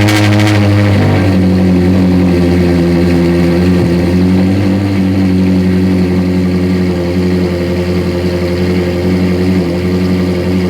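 Ferrari 458 Italia's flat-plane V8, just fired on a cold start, running at a steady fast idle through free-flow headers, bypass pipes and a titanium rear exhaust section. The pitch settles slightly lower about a second in, then holds.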